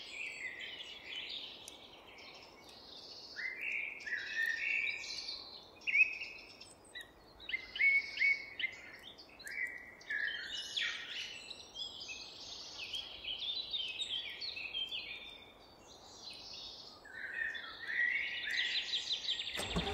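Several birds chirping and singing in quick, irregular short phrases over a faint steady background hiss, like a forest ambience.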